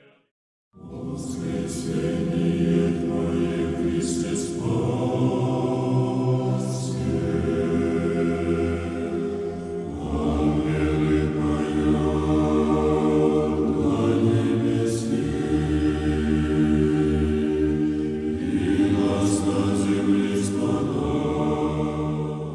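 A choir singing a slow church chant in sustained chords, in long phrases that change near 10 and 18 seconds in, starting about a second in and fading out at the end.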